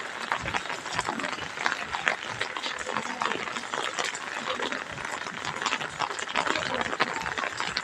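Steady rain falling, a dense sound of many small drops hitting.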